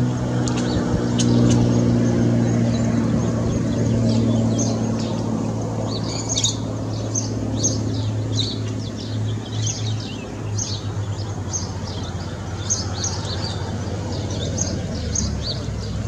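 Birds chirping in short, high calls that come more often from about six seconds in, over a steady low motor hum that weakens about ten seconds in.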